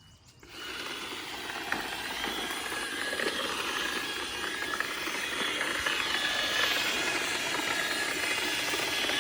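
iRobot Roomba 671 robot vacuum running over driveway debris, its vacuum motor and brushes giving a steady whirring, scratchy noise with a few sharp clicks. It starts about half a second in and grows slowly louder.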